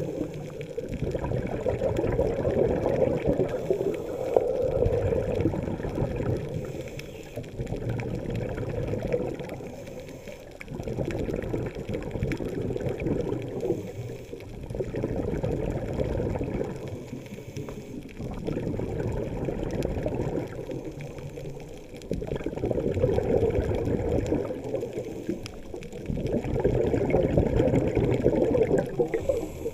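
Water sloshing and bubbling heard underwater, dull and low, swelling and fading about every four seconds.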